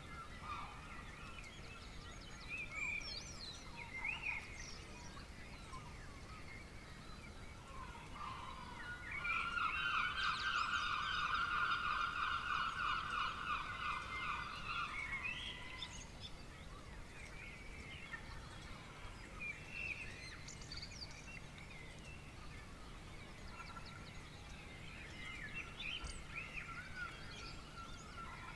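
A bird gives a loud, rapidly pulsing call lasting about six seconds, beginning about nine seconds in, while other birds chirp briefly throughout over a low steady background.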